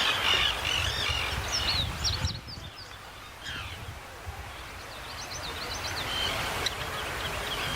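Birds calling in short, quick, high chirps, in a cluster about two seconds in and another around five to six seconds, over a steady outdoor hiss and low rumble.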